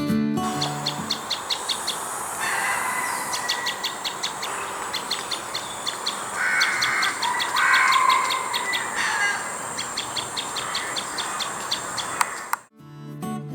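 Wild birds calling: several runs of quick, evenly repeated high chirps, with some lower calls in between, over a steady background hiss.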